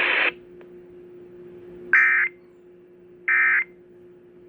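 Emergency Alert System end-of-message data bursts: short, loud, harsh digital tone bursts about 1.3 s apart. There are two, with a third starting at the very end, marking the close of the severe thunderstorm warning. A faint steady hum sounds underneath.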